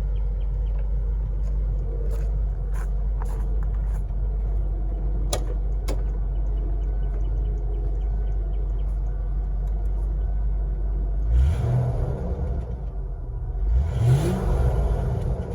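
1991 Ford Thunderbird's fuel-injected 302 (5.0 L) V8 idling steadily through its exhaust, then revved twice near the end, the pitch rising and falling each time.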